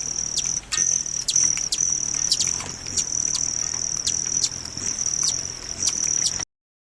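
Recorded hummingbird sounds: sharp, high chip notes at irregular intervals over a steady high-pitched trill. The sound cuts off abruptly near the end.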